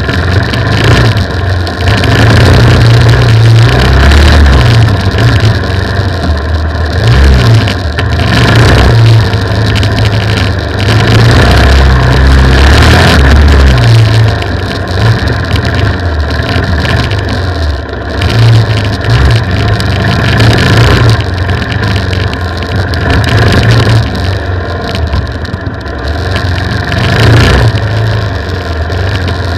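Dual-sport motorcycle engine under load on a dirt trail, revving and easing off again and again as the throttle is worked, picked up by the bike's onboard camera with wind buffeting the microphone.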